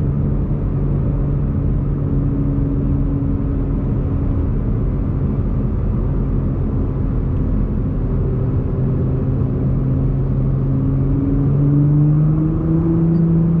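Nissan GT-R R35's twin-turbo V6 engine running at a steady cruise with tyre and road noise; its pitch sags a little, then rises as the car accelerates near the end.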